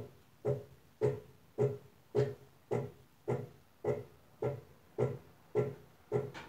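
Brastemp Advantech Wash washing machine agitating on its wool/extra-delicate cycle: a regular swishing thud about twice a second as the wash load is turned back and forth in the water.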